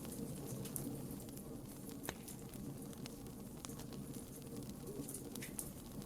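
Campfire burning, the wood crackling with sharp pops scattered about once a second over a low steady rumble; the loudest pop comes about two seconds in.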